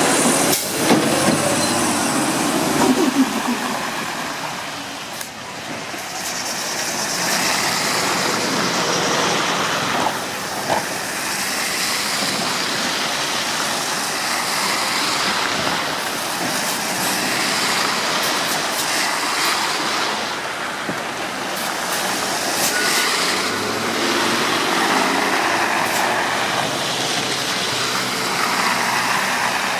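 Garbage truck running, with a few sharp clunks in the first few seconds and several spells of hissing air from its air brakes.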